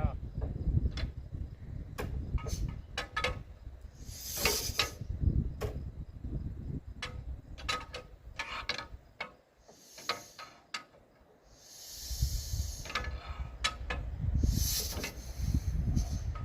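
1922 Rumely OilPull 16-30H's two-cylinder engine being turned over without catching: a surging mechanical rumble with sharp clicks and several short bursts of hissing. The rumble dies away about two-thirds through, then picks up again.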